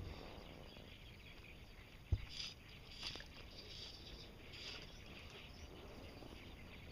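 Quiet open-water ambience with faint, intermittent high bird calls repeating from the reeds. A single sharp knock comes about two seconds in.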